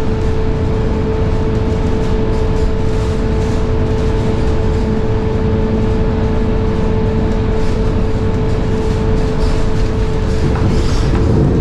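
Inside a Scania K230UB bus running at a steady speed: a constant high-pitched whine from its ZF Ecomat six-speed automatic gearbox, holding one pitch, over the rumble of the engine and road.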